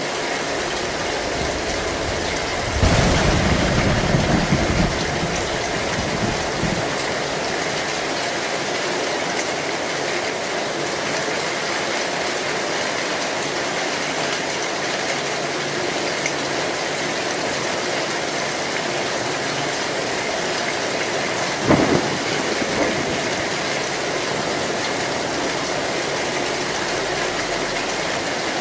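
Heavy rain beating steadily on an old metal roof, with a low rumble of thunder about three seconds in lasting a couple of seconds, and a single sharp thunder crack about two-thirds of the way through.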